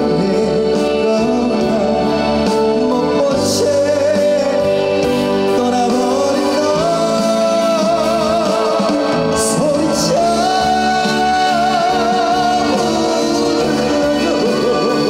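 Live trot song over a PA: a male singer holding long notes with wide vibrato over amplified band accompaniment.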